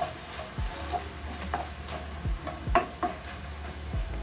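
Beef and diced tomato sizzling in a frying pan while being stirred with a wooden spoon, the spoon knocking and scraping against the pan about six times.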